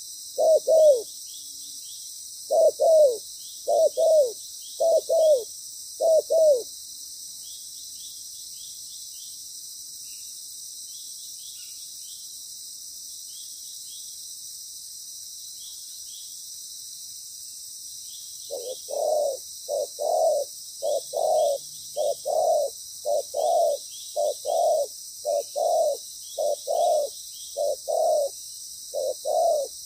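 Spotted doves cooing: a string of short, low coos that stops about six seconds in, then after a long pause a faster run of coos from near 18 seconds on. Faint high chirps sound throughout.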